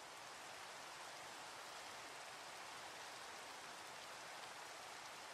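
Faint, steady rain: an even hiss with no single drops, thunder or other events standing out.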